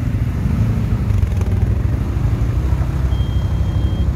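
ATV engine running steadily, a deep low drone. A thin high tone sounds for about a second near the end.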